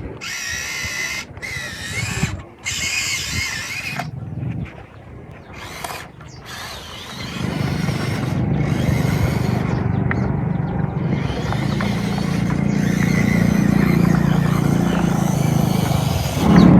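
Small machine motor running with a steady low hum that starts about halfway through and builds. It follows a few seconds of high, wavering squeals.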